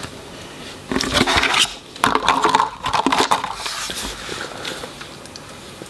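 Handling noise from the small plastic toy and its clothing being worked on: rustling and scraping in a short burst about a second in and a longer one from about two to four seconds in.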